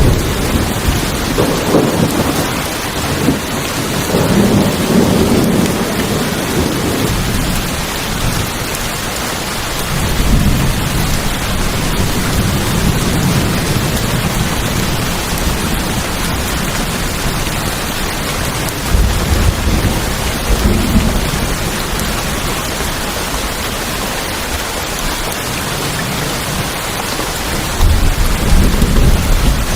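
Steady heavy rain falling on a tin roof, with several low rolls of thunder swelling up, the strongest at the start and near the end.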